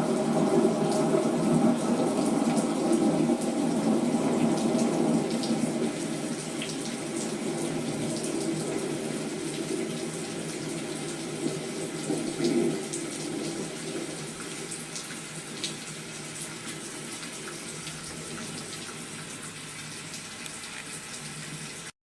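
Steady rain falling, with scattered drop clicks and an occasional low swell. It fades out gradually and cuts off abruptly just before the end.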